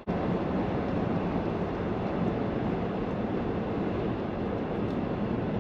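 Steady vehicle engine and road noise with a low hum, starting abruptly.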